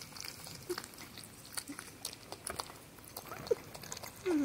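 Porcupine chewing food with a steady run of crisp clicks, giving short high squeaks: the happy sounds it makes while eating. Near the end it gives a louder whining call that drops in pitch.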